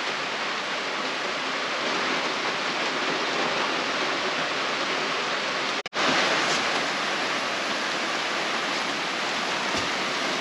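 Heavy rain falling steadily on the jungle, a continuous even hiss. The sound cuts out for an instant about six seconds in.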